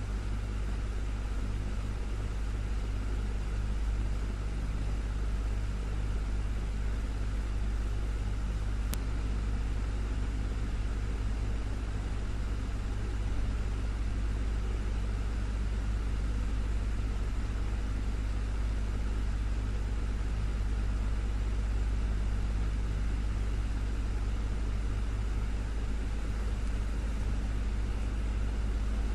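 Desktop fan running steadily: a constant low whir with a faint motor hum.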